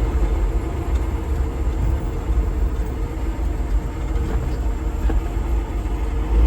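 Old manual-transmission truck's engine running while being driven, heard from inside the cab: a steady, deep drone with no change in pitch.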